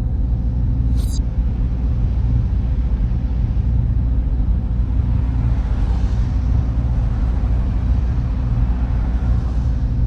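Steady low hum and rumble of server room machines and their cooling fans, with a thin hiss above it. A brief tick comes about a second in.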